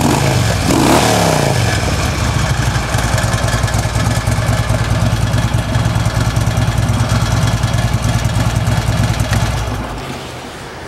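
2014 Harley-Davidson Ultra Limited's 103-cubic-inch V-twin running through its true dual exhaust: one quick rev about a second in, then a steady idle. The sound falls away near the end.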